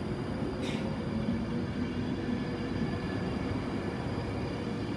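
Class 390 Pendolino electric train pulling out of the station: a steady low rumble with a faint electric hum, and a short hiss just under a second in.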